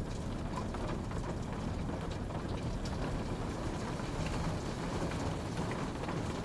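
Steady rainfall, an even wash of falling rain with scattered individual drops pattering on a surface.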